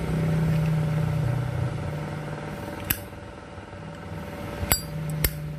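Steady low hum throughout, loudest in the first second and a half, with three sharp metallic clicks, one about three seconds in and two close together near the end: a Zippo lighter's lid and newly replaced hinge being worked while the hinge is adjusted.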